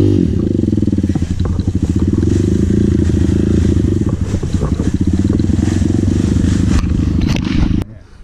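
Dirt bike engine running close by, with a brief rev at the start, then running steadily until it cuts off suddenly near the end.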